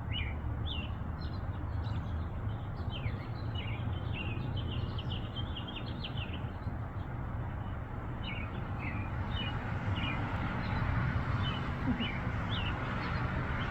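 Small birds chirping: many short, quick chirps, densest in the first half and more scattered later, over a steady low rumble of background noise that grows slightly louder near the end.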